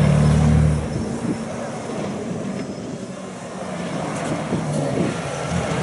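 A rally truck's engine passing close by, a loud low drone that drops away sharply about a second in, followed by quieter engine noise as it moves off.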